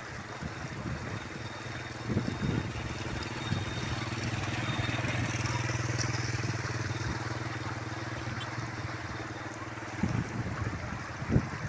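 A motor vehicle's engine running with a steady hum over a constant hiss, growing louder to a peak about halfway through, then fading, as a vehicle passing by does.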